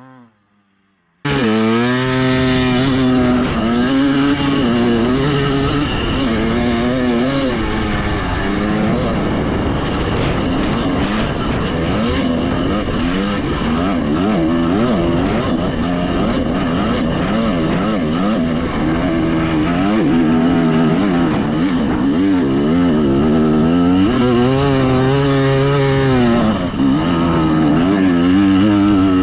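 Two-stroke KTM 300 XC TBI dirt bike engine revving hard under load up a steep hill climb, its pitch rising and falling as the throttle is worked. It cuts in suddenly about a second in, after near silence.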